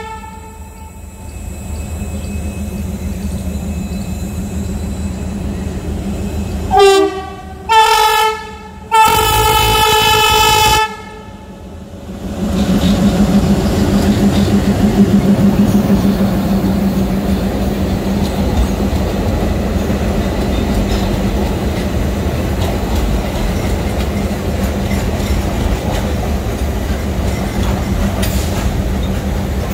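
Train horn sounding two short blasts and a longer third blast about seven to eleven seconds in, over a steady hum. From about twelve seconds in, a train running over the rails with a steady, loud rumble and clatter.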